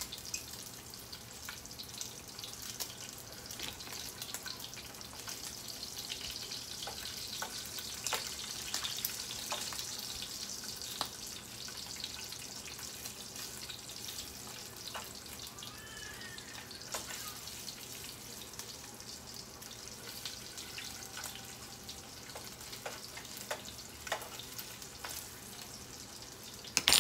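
Food frying in a pan: a steady sizzling hiss with scattered crackles and pops. A sharp knock comes right at the end.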